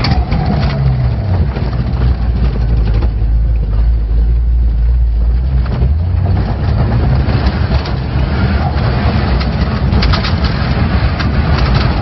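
Turbocharged 4x4 engine working off-road, its pitch falling over the first second or so, then a steady low rumble. A run of rapid clicks comes near the end.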